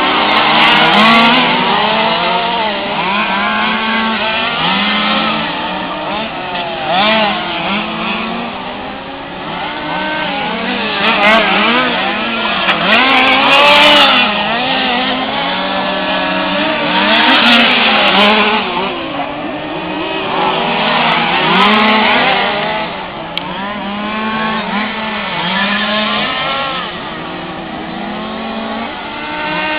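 Several 1/5-scale RC race cars' small two-stroke petrol engines running together, their overlapping pitches rising and falling as the cars accelerate and brake, with louder swells as cars pass close.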